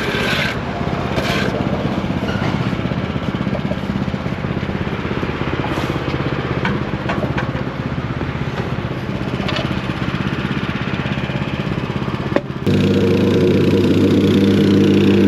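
A motor runs steadily. About twelve seconds in there is a click, and a louder, steadier engine note takes over.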